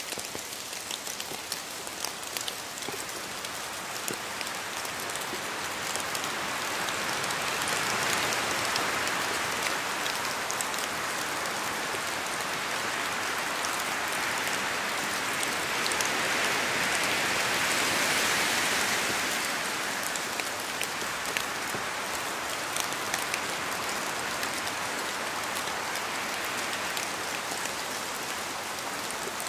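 Steady rain falling, with many individual drops ticking on a surface. The downpour swells heavier a few times, most strongly just past the middle, then eases back.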